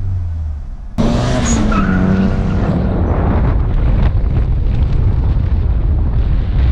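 Chevy Cobalt engine revved and held at about 4,000 rpm with a steady low drone. About a second in it cuts abruptly to much louder, rougher engine and road noise from a car driving hard down a street.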